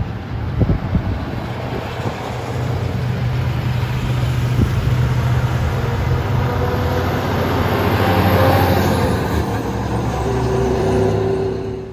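Heavy diesel truck's engine running as it passes, growing louder to a peak most of the way through and then easing off.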